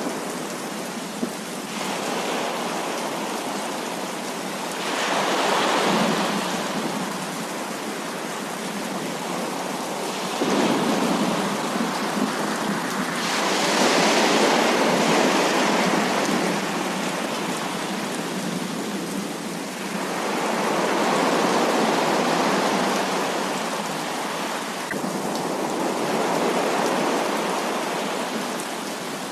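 Heavy rain falling steadily in a thunderstorm, swelling louder and easing back several times.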